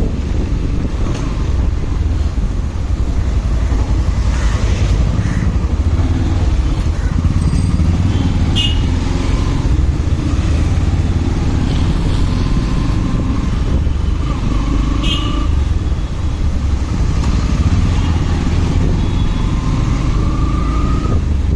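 A motorcycle being ridden through traffic, heard from on the bike: a steady, loud low wind rumble on the microphone over the engine and road noise, with a few brief high chirps from the traffic.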